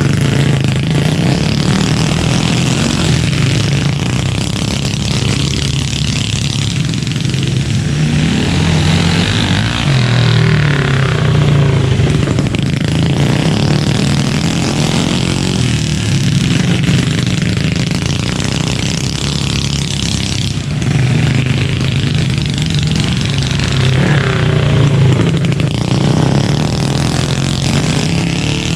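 Mini bike engines running on a dirt flat track, their note rising and falling as they rev through the laps.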